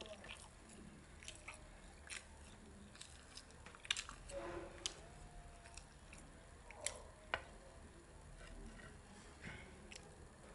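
A child chewing and biting pancake close to the microphone: soft, wet mouth sounds with scattered sharp clicks and smacks.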